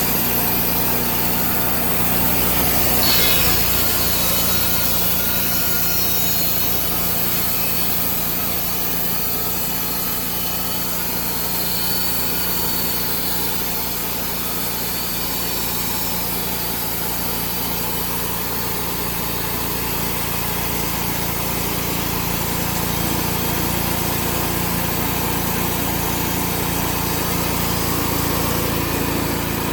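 Engine-driven portable bandsaw mill running steadily as its band blade cuts through a log.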